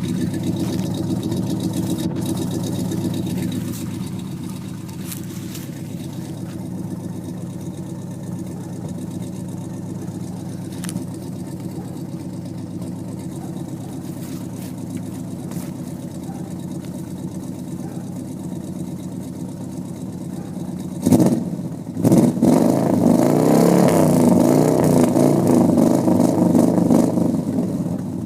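A 350 V8 with long-tube headers idling steadily. About 21 seconds in it is blipped once, then revved and held up for about six seconds before it drops back near the end.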